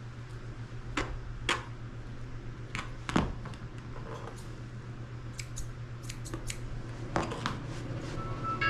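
Grooming scissors snipping through a dog's tail hair: a dozen or so short, sharp snips at irregular intervals, over a steady low hum.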